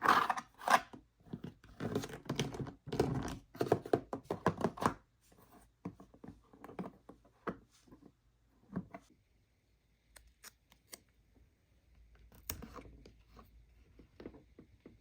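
Toy box packaging being opened by hand: tearing and scraping for about five seconds, then scattered light clicks and taps as the pieces are handled.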